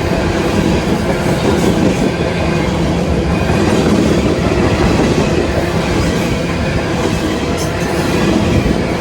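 A train rolling past at close range: a steady, loud rumble of wheels on rail, with a faint brief high squeal near the end.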